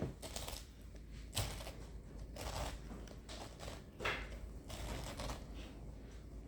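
Handheld pineapple corer being twisted down into a pineapple: intermittent crunching and scraping of the blade through the fruit, with a sharp click about one and a half seconds in.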